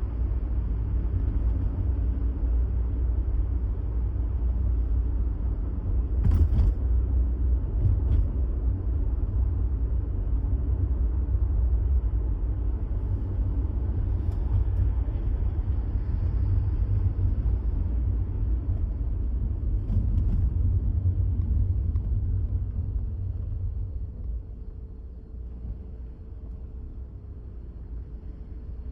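Steady low rumble of a car in motion, with a few faint knocks, easing off near the end.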